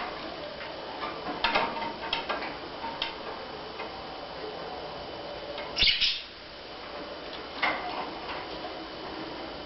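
Budgerigar pecking and tapping at something with its beak: scattered sharp taps and clicks, the loudest a clatter about six seconds in.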